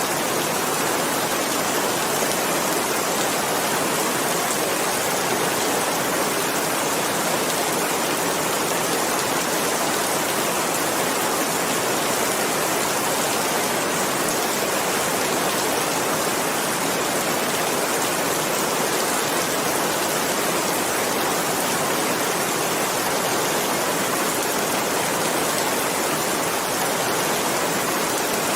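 Steady, dense rainfall: a continuous even hiss of rain with no distinct drops or breaks.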